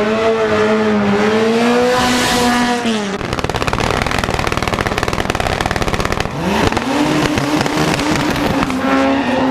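High-revving racing engine held at high revs, its note wavering, then a few seconds of rapid stuttering pulses, then revving up again and holding a steady high note.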